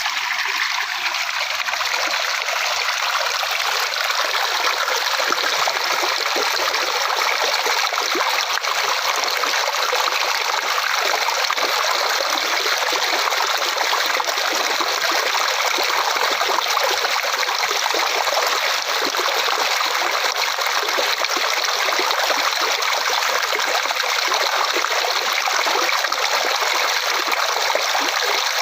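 Flowing water: a small stream trickling steadily, a bright even rush with little deep rumble.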